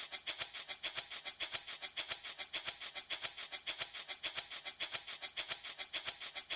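Handmade baby rattle shaken in a steady fast rhythm, about seven shakes a second, each stroke a dry, high-pitched rattle of loose beads or grains.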